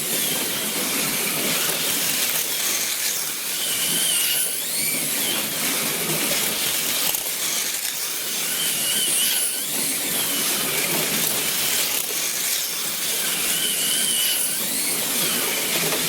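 Plastic-chassis slot cars' small electric motors whining as they race around a wood routed track. The pitch rises and falls in a pattern that repeats about every five seconds, once per lap.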